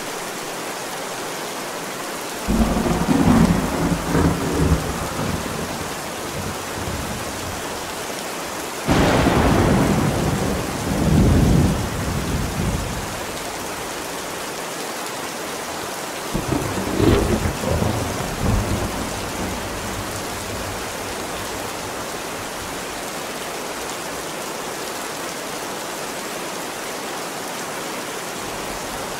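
Steady rain with three rolls of thunder. The first breaks about two and a half seconds in. The loudest comes around nine seconds with a sudden crack, then rumbles on for about four seconds. The third rolls in around sixteen seconds.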